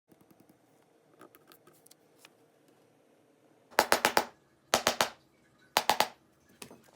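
Three quick bursts of sharp clicks or taps, three to four clicks each, about a second apart, after a couple of seconds of faint small ticks.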